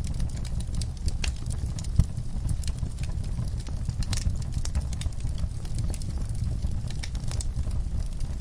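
Wood fire crackling in a fireplace: irregular snaps and pops over a steady low rumble of burning logs, with one sharper pop about two seconds in.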